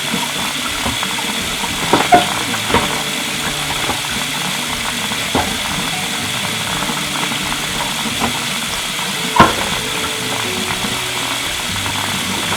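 Steady hiss of running tap water while shelves are washed, with a few sharp knocks of items handled in the sink, the loudest about nine seconds in. Soft background music underneath.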